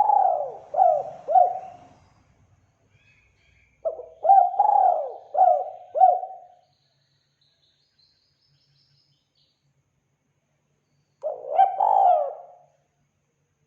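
Spotted dove (tekukur) cooing in repeated phrases of several quick rising-and-falling coo notes. One phrase is already going at the start, another comes about four seconds in, and a third near the end, with pauses between them. A faint thin high whistle sounds in the pause between the second and third phrases.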